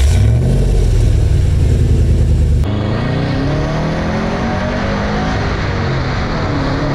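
A 2013 Subaru WRX's turbocharged 2.5-litre flat-four running with a deep, steady exhaust note. After a cut about two and a half seconds in, the engine is accelerating, its pitch rising with the revs.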